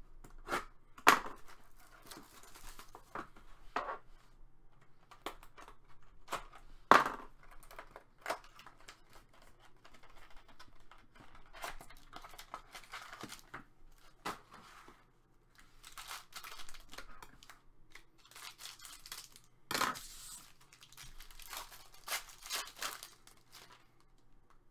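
Hockey card pack wrappers being torn open and crinkled, with cards being handled. There are scattered sharp taps, the loudest about a second in, about seven seconds in, and near twenty seconds in, and longer stretches of rustling later on.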